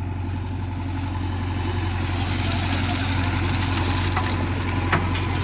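Heavy diesel engine running steadily at a low, even speed, picking up a little in loudness partway through, with one short knock near the end.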